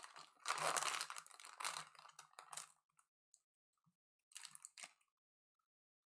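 Trading card pack being opened: crinkly rustling and crunching of the wrapper with small clicks for about three seconds, then a shorter burst of rustling about four seconds in.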